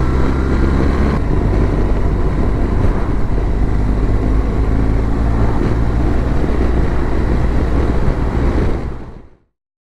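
BMW R1200GS motorcycle's boxer-twin engine running at a steady speed, with wind noise on the microphone. The sound fades out about nine seconds in.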